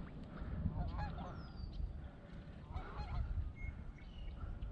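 Birds honking: a few faint pitched calls about a second in and again around three seconds in, over a low rumble.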